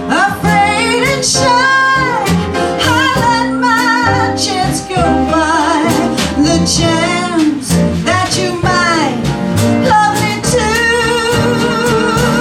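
A woman singing a slow melody with a strong vibrato over instrumental backing.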